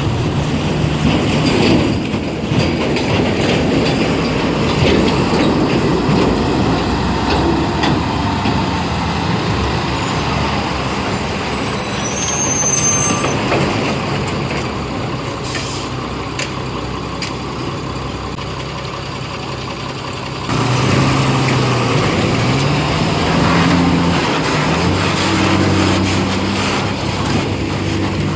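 Heavy Tata tipper trucks' diesel engines running as they crawl along a muddy dirt road, with a few brief high squeaks around the middle. About 20 s in the sound switches abruptly to a closer truck engine whose pitch rises and falls as it revs.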